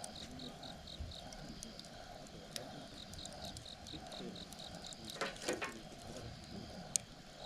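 Campfire crackling, with a burst of crackles about five seconds in and one sharp pop near the end. An insect chirps in quick regular pulses, about four or five a second.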